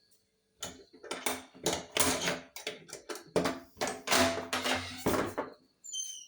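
A run of irregular scuffing footsteps and knocks, a few strokes a second, some drawn out into longer scrapes, then a short high chirp near the end.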